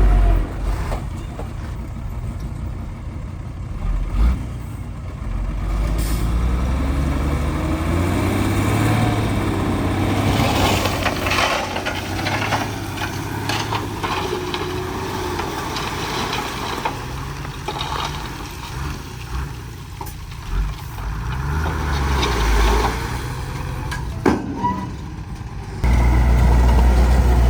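Heavy diesel machinery running, its engine pitch rising and falling as it works, with scattered sharp knocks and a louder rumble near the end.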